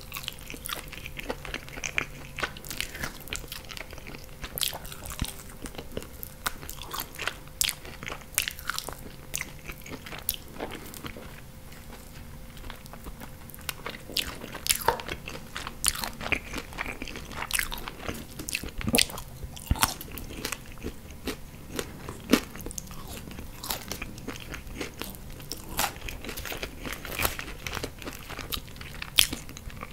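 Close-miked chewing and biting of chicken wings in sauce, with many irregular sharp crunches and wet mouth sounds.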